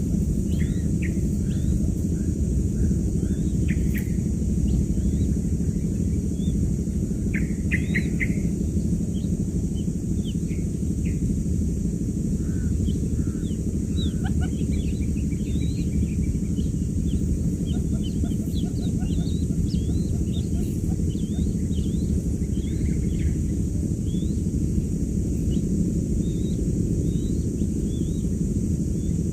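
Quail chicks peeping in many short high chirps, thickest toward the middle, over a loud, steady low hum.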